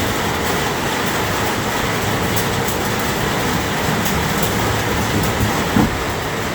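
Steady storm noise: heavy rain with a low rumble and scattered faint ticks, and a short knock near the end.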